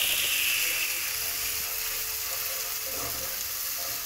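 Onion and garlic paste sizzling in hot oil in a nonstick frying pan, with a steady hiss, as a wooden spatula stirs and scrapes it.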